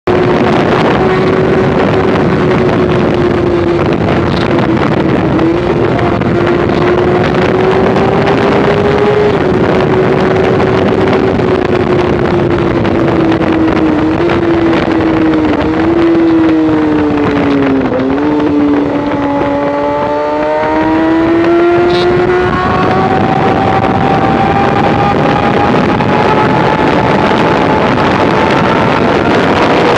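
Kawasaki ZX-6R 636 inline-four engine running hard at steady high revs, with heavy wind rush at riding speed. Its note sags and wavers a little past halfway, then a higher note climbs steadily through the last third as the bike accelerates.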